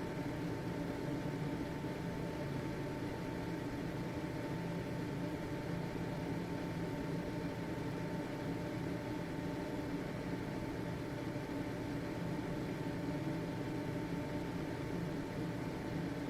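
Household exhaust fan running steadily: an even whooshing hum with a thin steady tone on top, unchanging throughout.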